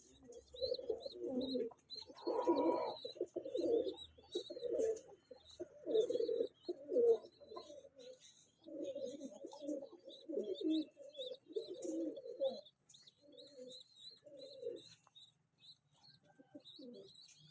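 Pigeons cooing over and over in low, throaty pulses, with a steady run of short, high thin cheeps above them.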